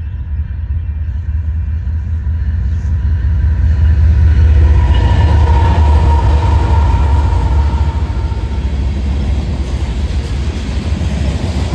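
Union Pacific mixed freight train rolling past: a steady rumble of the freight cars, loudest around the middle.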